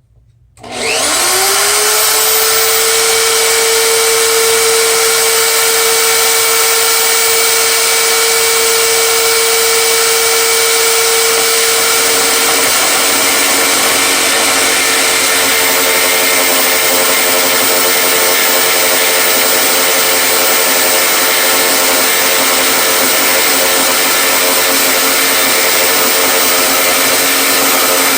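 Electric miter saw switched on, its motor spinning up quickly and running loud and steady. About twelve seconds in, its pitch drops and stays lower, as the motor slows under load from the blade cutting into the wood.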